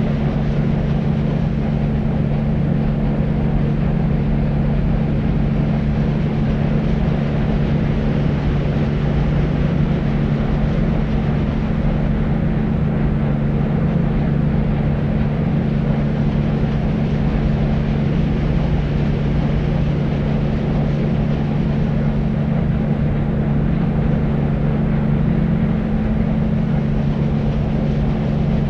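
Deep white noise: a steady, unchanging rush weighted toward the low end, with a low hum under it.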